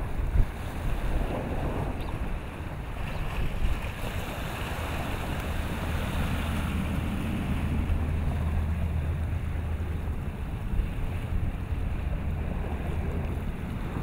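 Wind buffeting the microphone over choppy open water, with a low rumble and the wash of waves.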